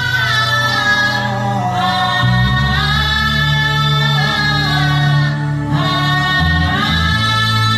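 A man humming a slow, wordless worship melody in long held notes, the pitch shifting every couple of seconds, over low sustained accompaniment notes.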